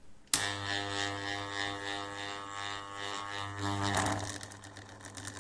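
Heater blower's small AC fan motor switched on with a click and buzzing with a steady mains hum while it fails to run properly, the sign of a stalled motor whose rotor and stator alignment has gone out after a worn washer let it sag. A brief rattling burst about four seconds in, after which the hum drops quieter.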